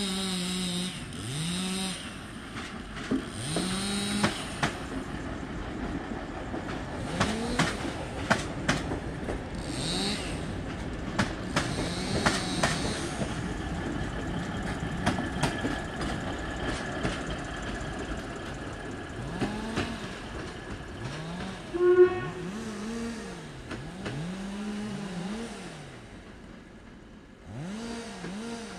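SKPL diesel railbus train passing close by, its wheels clattering over the rail joints while its engine runs. There is a short loud sound about two-thirds of the way through, and the train fades as it moves off near the end.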